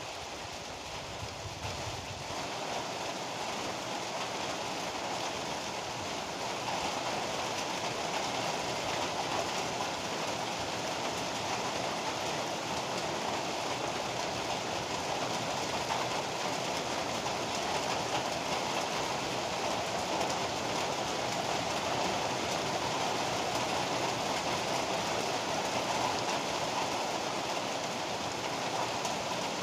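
Heavy rain falling steadily in a dense, even hiss, growing a little louder over the first several seconds.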